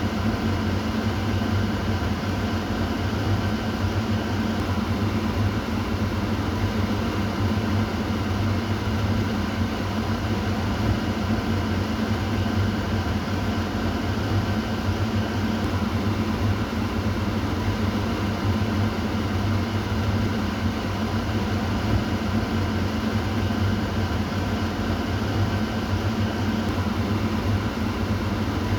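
Kitchen exhaust fan running steadily: an even rush of air over a low, steady motor hum, with no change in speed.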